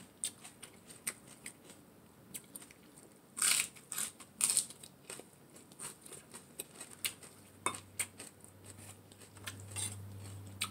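Close-up eating sounds: crunchy chewing of romaine lettuce and shredded-carrot salad, with scattered clicks of a spoon against plates.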